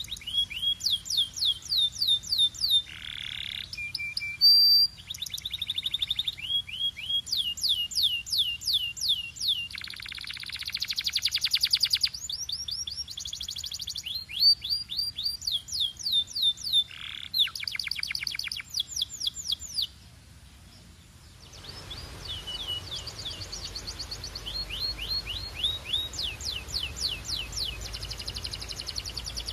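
Domestic canary singing: fast trills of repeated down-sweeping notes, the phrase changing every second or two. About two-thirds of the way through the song breaks off briefly, then resumes softer over a background hiss.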